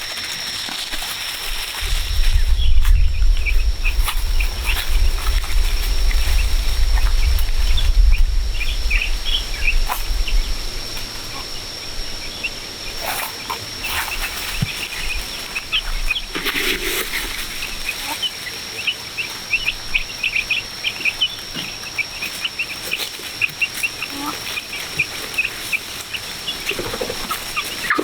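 Birds chirping in many short, quick calls over a steady high-pitched whine, with a low rumble during the first ten seconds or so.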